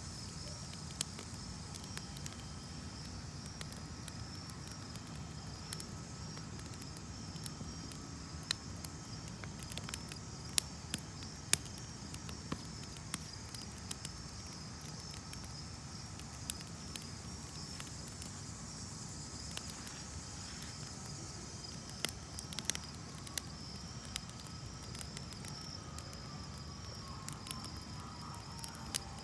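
Campfire burning, with scattered crackles and sharp pops over a steady low rush, the loudest pops a little before the middle. Crickets chirp in a continuous pulsing trill behind the fire.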